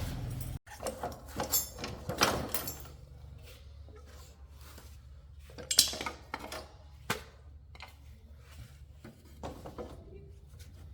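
A series of sharp clicks and knocks of hard objects being handled, clustered early on, with the loudest single click about six seconds in, over a low steady hum.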